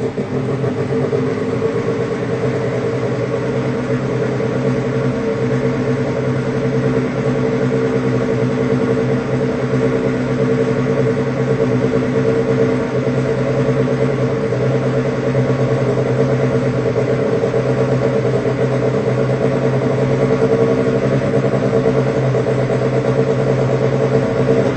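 Cubewano Sonic 35 liquid-cooled Wankel rotary engine running steadily on Jet-A1 heavy fuel, turning a propeller, at an even, unchanging pitch.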